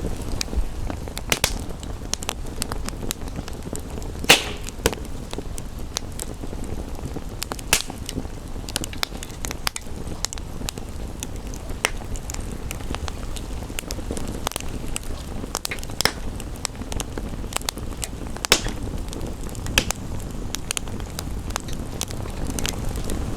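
Wood fire crackling, with irregular sharp pops over a steady low rush, a few of the pops louder than the rest.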